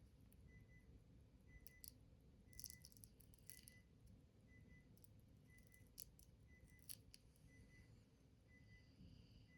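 Near silence: low room hum with a few faint, sharp clicks and light rattles of small objects being handled, and a faint short high tone repeating about every three-quarters of a second.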